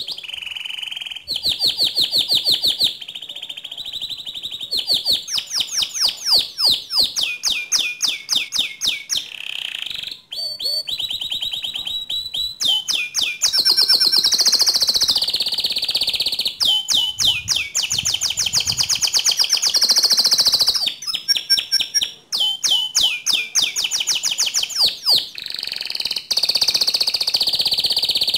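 Domestic canary singing a long, loud song of fast rolling trills and rapid-fire repeated notes, switching to a new phrase every second or two.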